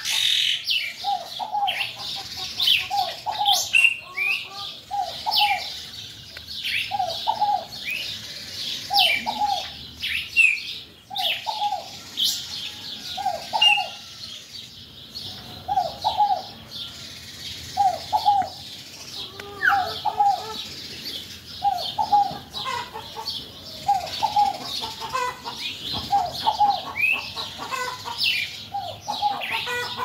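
Several birds chirping and singing, while one bird repeats a short two-note call about once every second or so.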